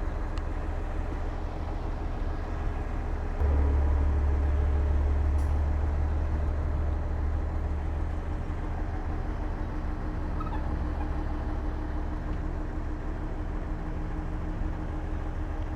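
Heavy diesel engine of earthmoving machinery running with a deep, steady rumble. It gets suddenly louder about three and a half seconds in, then eases back over the next several seconds.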